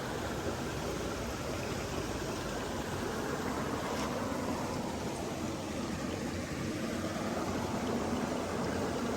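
Steady rushing noise of running water, even and unbroken, with one faint tick about four seconds in.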